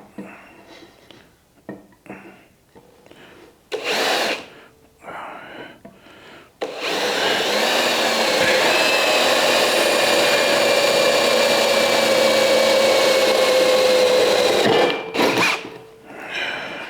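Electric drill boring a hole through a steel strip: a few knocks and handling clatter, then the drill runs loud and steady for about eight seconds, its pitch sinking slowly as the bit cuts, before stopping with a clunk.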